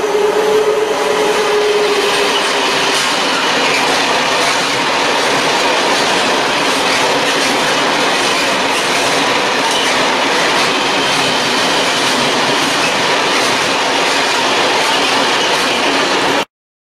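A freight train of open wagons rolling past at close range, its wheels running over the rails in a steady loud rush. A steady squealing tone sits over it for the first few seconds. The sound cuts off suddenly near the end.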